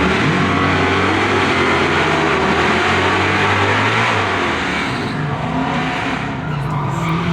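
Two nitrous-fed Dodge Hellcats' supercharged V8s running at full throttle down a drag strip, loud for about four seconds and then fading as the cars pull away.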